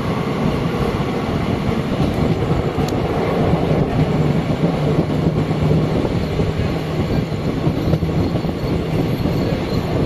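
Passenger train running out of a station, heard from an open coach doorway: a steady rumble and rush of wheels on the track, with a low hum in the middle.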